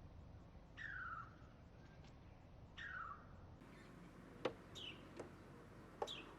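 Wild birds calling faintly: a short falling call about every two seconds, then a few sharp clicks with quick, high falling chirps in the second half.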